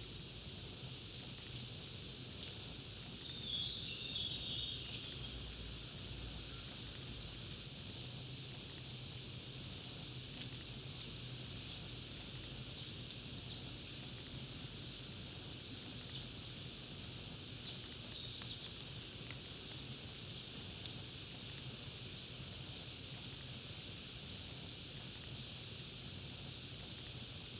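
Crackling campfire: a steady hiss with scattered sharp pops. Birds chirp a few seconds in and again briefly near the middle.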